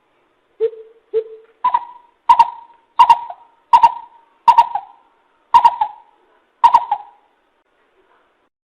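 Greater coucal calling: a series of about nine hooting notes, the first two lower, then higher and louder, spaced a little over half a second apart and slowing slightly, stopping about seven seconds in.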